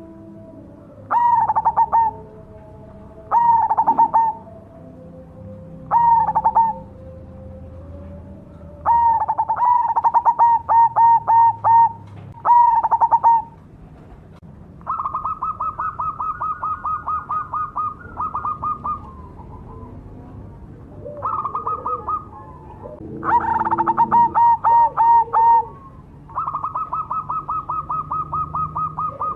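Perkutut (zebra dove) of the black cemani variety singing: repeated cooing phrases, each a quick run of notes, with some drawn out into long strings of fast, even pulses.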